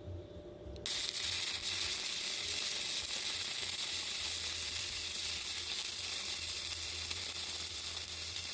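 Yeswelder YWM-160 MIG welding with gasless 0.035 flux-core wire: the arc strikes about a second in and then crackles steadily as the bead is run.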